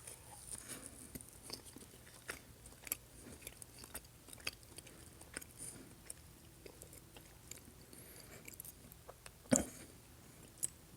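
A person chewing French fries close to the microphone: faint, irregular mouth clicks and soft crunching, with one short louder sound about nine and a half seconds in.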